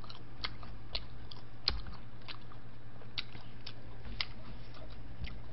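A person chewing pizza crust close to the microphone: sharp, irregular crunching clicks, about two a second, over a steady low hum.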